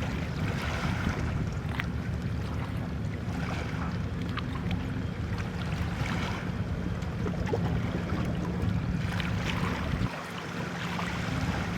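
Steady low hum of a boat engine, with wind buffeting the microphone; the low hum briefly drops away about ten seconds in.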